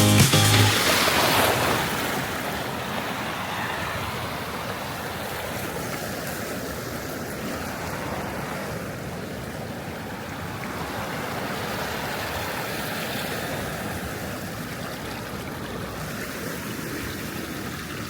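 Sea surf washing on the shore: a steady rush of breaking waves that swells and eases slowly.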